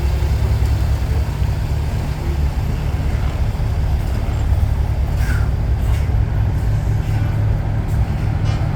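Heavy trucks' diesel engines rumbling steadily as the trucks drive past.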